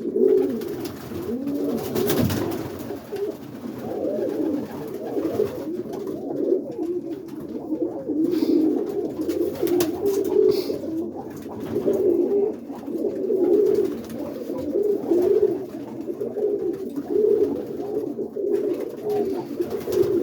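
Several roller pigeons cooing at once, a continuous overlapping rolling coo. There is a short sharp knock about two seconds in.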